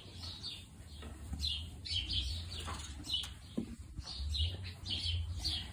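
Small birds chirping in the barn: short high chirps a couple of times a second, over a low rumble.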